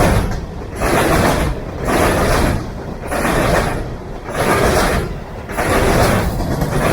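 Freight train rolling past close by: a steady low rumble with a regular surge of noise about once a second as each car goes by.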